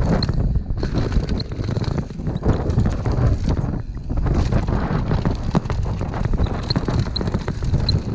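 Mountain bike descending a rough dirt trail: wind buffeting the microphone over a steady run of rattles and knocks from the bike jolting over bumps.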